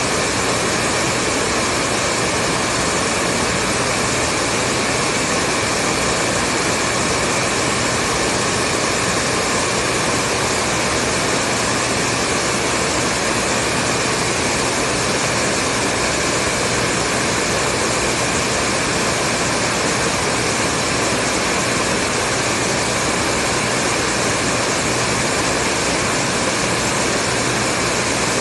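Hair dryer running steadily: a continuous even rush of air and motor noise with a faint steady whine, unchanging throughout.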